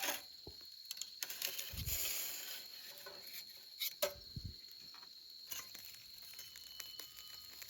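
Scattered light clicks and brief rustles, over a faint steady high-pitched tone.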